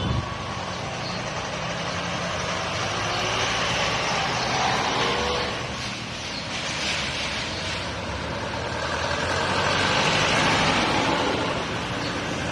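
Road traffic with trucks passing: engine and tyre noise that swells twice as vehicles go by.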